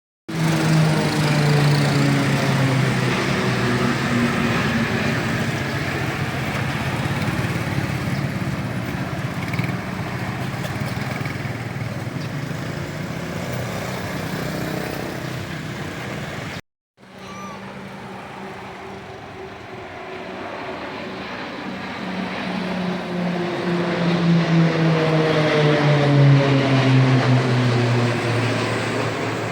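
Diesel locomotive engine running as a train passes the level crossing, its pitch slowly falling. It cuts out briefly about halfway, then comes back, grows louder and falls in pitch again.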